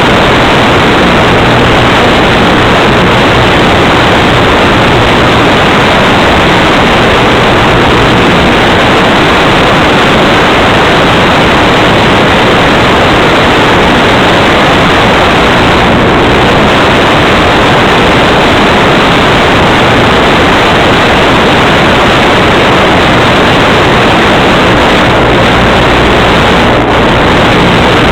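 A loud, steady hiss that does not let up.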